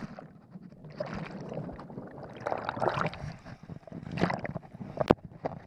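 Water sloshing and splashing, with irregular knocks.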